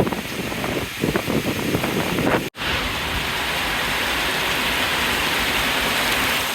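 Wind buffeting the microphone in uneven gusts, then a sudden drop-out about two and a half seconds in. After it comes a heavy downpour: a steady, even hiss of rain.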